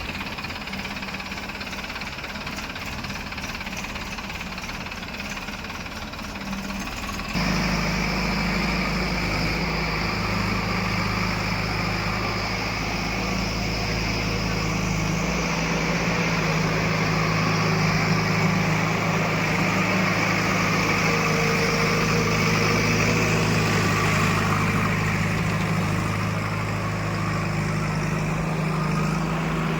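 Heavy diesel engine running steadily, becoming suddenly louder about seven seconds in and staying at that level.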